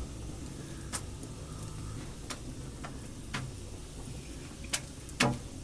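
A few scattered sharp clicks and knocks, about six in all, over a low steady background, the loudest a knock near the end.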